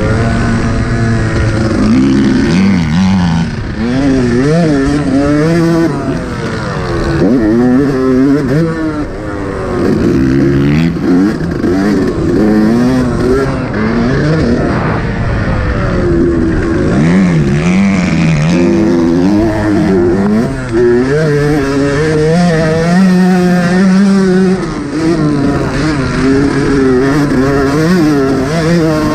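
Yamaha YZ125 two-stroke single-cylinder dirt bike engine revving hard. Its pitch climbs and drops again and again with the throttle.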